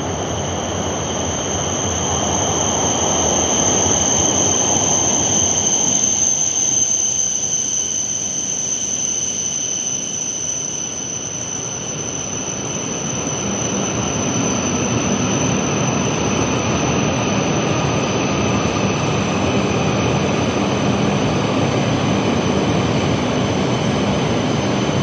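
E5-series Shinkansen train running into an underground station platform, a steady rush of running noise with a constant high-pitched whine. The noise swells, eases off about halfway through, then builds again as the cars slide past.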